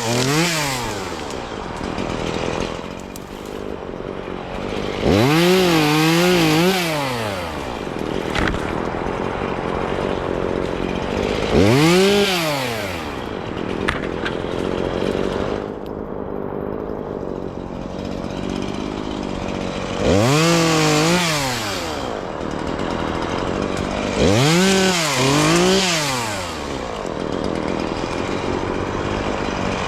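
Chainsaw revving up and dropping back to idle about five times, each rise and fall lasting a second or two, with the saw running lower in between.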